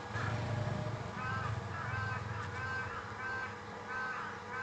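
A bird calling repeatedly in the background: a regular series of short, harsh calls, roughly one or two a second, starting about a second in. A low rumble sits under the first three seconds.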